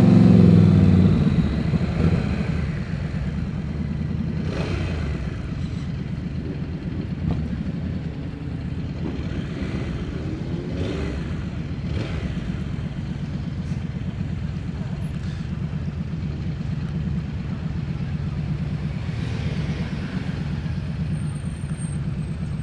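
Motorcycle engine running, loudest in the first couple of seconds and then settling to a steady idle.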